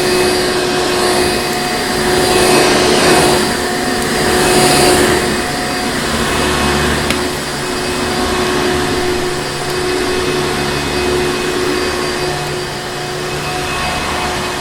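Vacuum cleaner running steadily: a continuous rushing drone with a constant hum and whine, swelling slightly louder a few seconds in.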